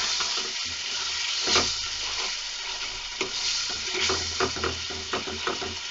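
Onion-tomato masala sizzling as it fries in a pan, while a spatula stirs and mashes it with irregular scraping strokes against the pan. The chopped tomatoes are being fried down into the masala.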